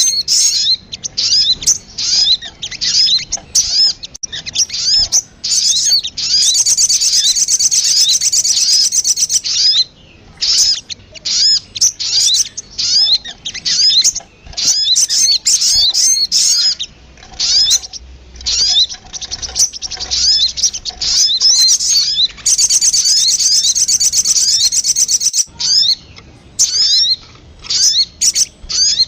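Lure recording of the sogon (little spiderhunter) calling: rapid series of sharp, high chirps. Twice it breaks into a longer dense chatter, once about a fifth of the way in and again about three-quarters of the way through.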